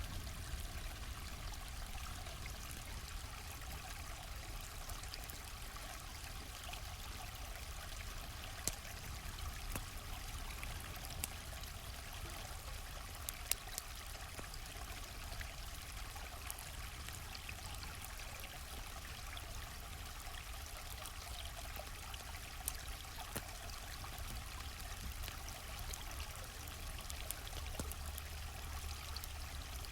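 Steady rushing of a flowing stream, with a few scattered sharp pops and crackles of a wood campfire.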